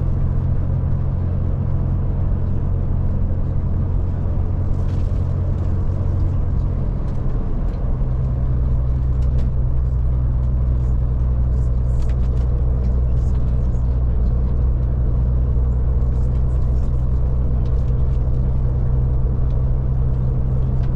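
Scania Touring coach's diesel engine running under way, heard from inside the coach as a steady low drone over tyre and road noise. The engine note changes about seven seconds in, then holds steady again.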